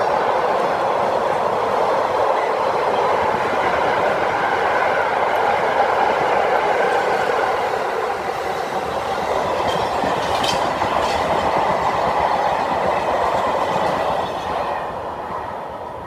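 A freight train's wagons rolling past on the rails: covered car-carrier wagons, then flat wagons, making a loud steady running noise of wheels on track. A faint high steady tone sounds in the second half. The noise fades away about fourteen and a half seconds in as the tail of the train passes.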